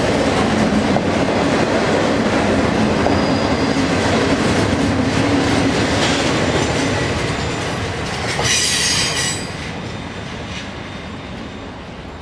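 Union Pacific double-stack container train rolling past, its wheels on the rails making a steady rumble and clatter. About eight and a half seconds in, a short high-pitched wheel squeal rings out, then the train sound fades away.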